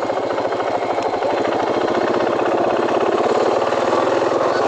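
KTM 500 dual-sport motorcycle's single-cylinder four-stroke engine running at a steady pace under way, its rapid, even firing pulses continuous.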